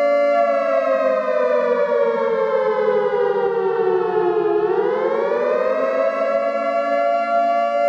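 Warning siren wailing: it holds one pitch, slides slowly lower for about four seconds, swings back up within about a second and a half, then holds the pitch again.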